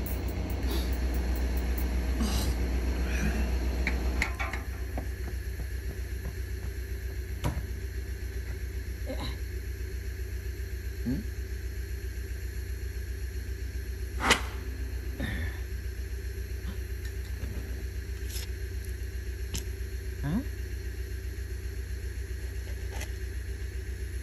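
Low, steady rumble of a stationary train, fuller for the first few seconds, with scattered small clicks and creaks and one sharper knock about fourteen seconds in.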